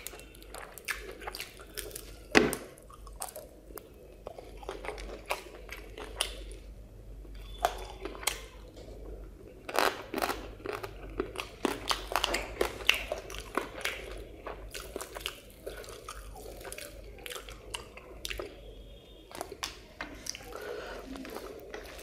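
A person chewing fried fish and rice with curry, eaten by hand, close to a clip-on microphone: a steady run of wet mouth clicks, smacks and crunches, with one louder crunch about two seconds in.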